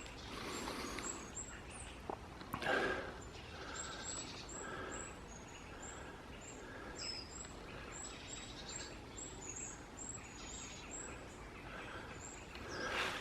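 Small birds calling with many short, very high, thin chirps, over footsteps and rustling through woodland undergrowth, loudest about two and a half seconds in.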